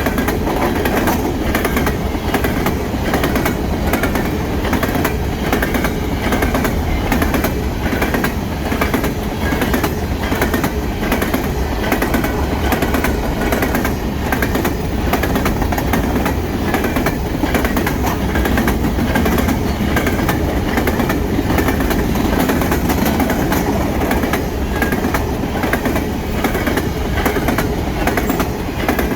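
A string of 3-bay covered hopper cars of a freight train rolling past. Their wheels click steadily over the rail joints above a continuous rumble.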